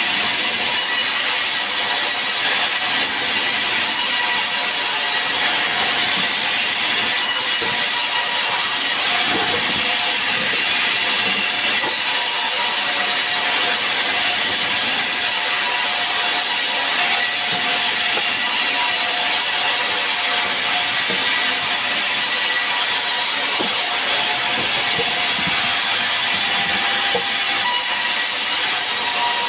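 Sawmill saw running steadily, a constant high hiss with a few steady tones under it and no change in level.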